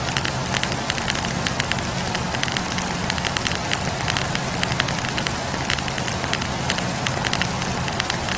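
Wood campfire burning, with many small irregular crackles and pops from the burning logs over a steady hiss of flame.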